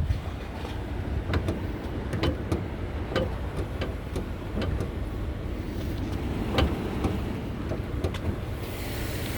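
2008 Volvo XC90's 3.2-litre straight-six idling steadily and quietly, with scattered light clicks and knocks. A higher hiss comes up near the end.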